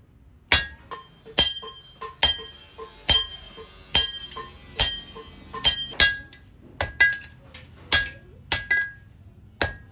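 Hand hammer striking metal on an anvil in a steady rhythm, about one blow a second with lighter taps in between. Each blow rings briefly.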